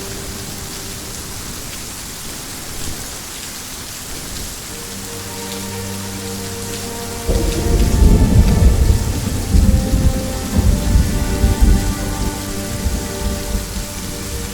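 Steady rain falling, then about seven seconds in a thunderclap breaks in suddenly and rolls on as a rumble for several seconds, the loudest sound here.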